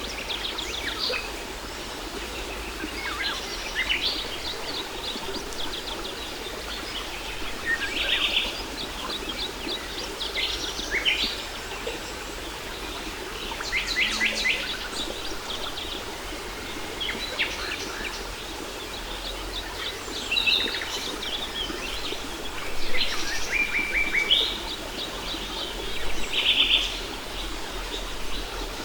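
Several songbirds chirping and trilling in short repeated phrases over the steady rush of a waterfall.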